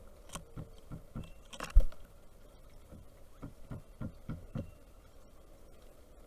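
Pileated woodpecker pecking at a bird feeder: a string of irregular taps, with one much heavier knock just before two seconds in.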